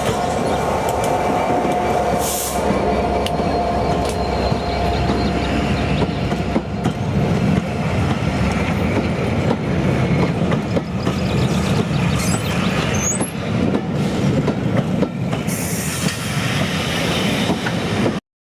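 Train running along the rails: a loud, steady din of wheels on track, with a brief high squeal from the wheels about thirteen seconds in. It cuts off abruptly at the end.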